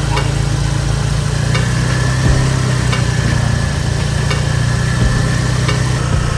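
A motor running steadily with a low hum, with a light click repeating about every 0.7 seconds.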